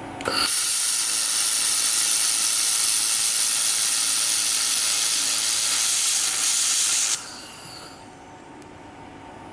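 Handheld laser welding gun firing on metal: a steady hiss of shielding gas and welding that starts abruptly and cuts off suddenly after about seven seconds.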